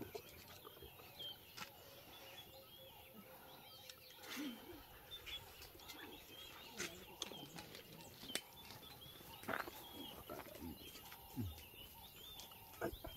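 Small birds chirping on and off in the background, with a few quiet clicks and brief low vocal sounds.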